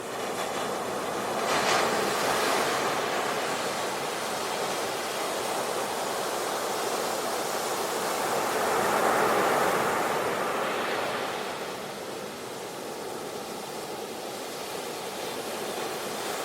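Ocean surf breaking and washing up a beach. A wave breaks about two seconds in, a bigger swell builds and breaks around nine seconds, and the wash then ebbs to a lower rush.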